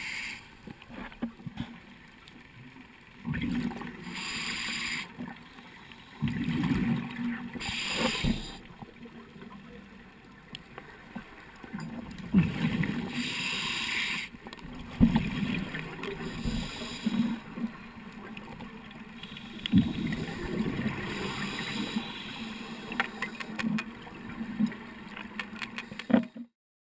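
Underwater gurgling of a scuba diver's exhaled bubbles, surging every few seconds over a low rumble, then cutting off suddenly near the end.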